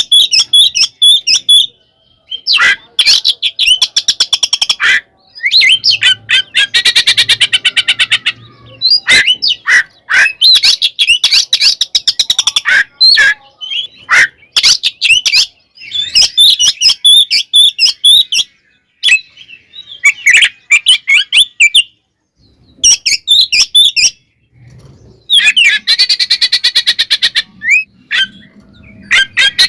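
Oriental magpie-robin (kacer) singing loud, varied phrases mixed with rapid harsh rattling chatter, in bursts broken by short silences. It is the agitated, fighting-mode song of a male in full voice.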